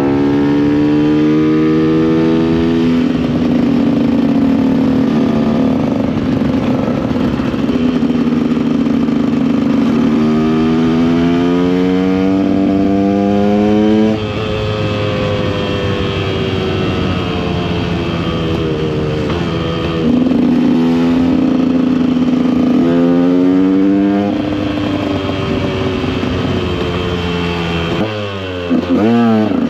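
KTM EXC 125 two-stroke enduro engine running under throttle. Its pitch holds steady for long stretches and climbs twice as it is revved up, then steps back down. Near the end there are a few quick blips of the throttle.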